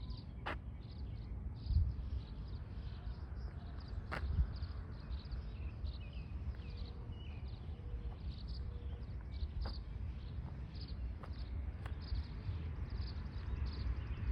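Many small birds chirping, short high chirps repeating throughout, over a low rumble, with a few sharp clicks.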